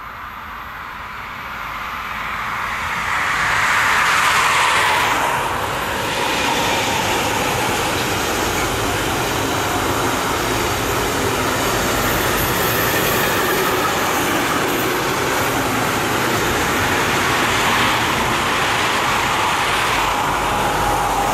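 DB class 185 electric locomotive passing at speed, its whine falling in pitch as it goes by about four to five seconds in, followed by the steady rolling noise of a long intermodal freight train's wagons. Motorway traffic runs alongside, with a road vehicle passing near the end.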